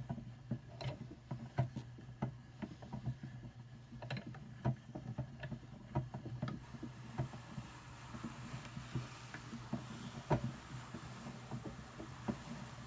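Hand-cranked drum carder turning with wool on its fine carding cloth, making an irregular run of light clicks and taps, with a soft hiss of fibre brushing on the cloth building from about halfway.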